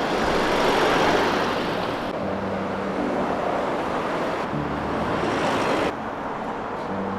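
Outdoor street noise with road traffic: a steady haze of passing vehicles with a faint engine hum under it, the background changing abruptly a few times.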